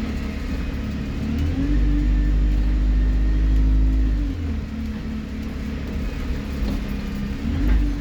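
Alexander Dennis Enviro 200 bus engine under way: the revs rise about a second and a half in, hold, ease off after about four seconds, and climb again near the end.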